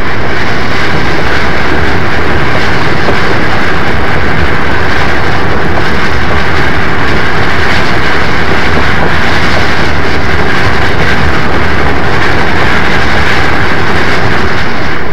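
A train running on the rails, a steady, loud, unbroken din of wheels and running gear.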